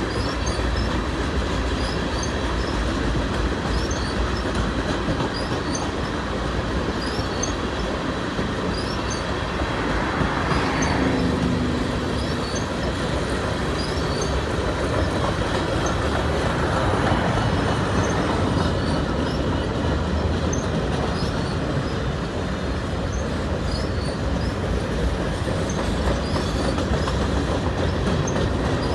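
Freight train cars rolling past steadily, the wheels clicking over rail joints with a continuous rumble and faint squeal, swelling twice.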